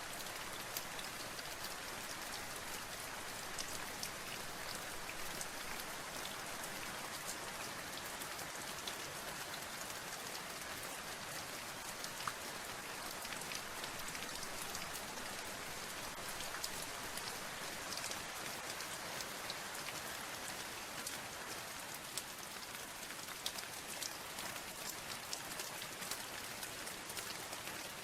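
Steady rain, with many separate drops ticking on a surface.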